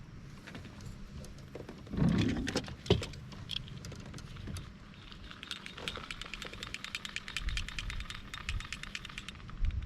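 A knock against the kayak, then the small chains of a lure retriever jangling in a long run of fast, light clicks while it works a snagged treble-hook lure free.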